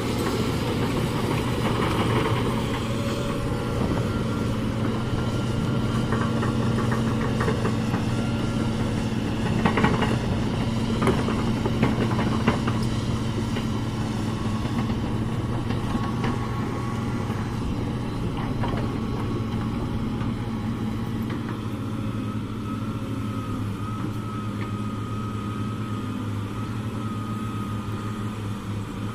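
Heavy diesel engine of construction machinery running steadily, with a few sharp knocks about a third of the way in.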